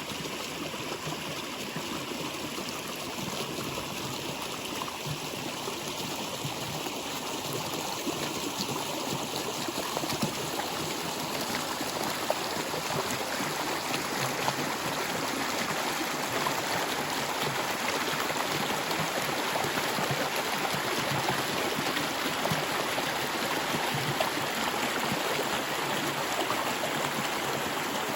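Flowing stream water, a steady rush with small splashes and gurgles, growing slightly louder partway through.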